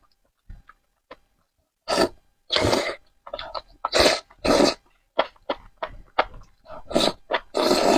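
Close-miked mouth sounds of a person eating spicy noodles: short, loud bursts, often in pairs, with small wet clicks between them.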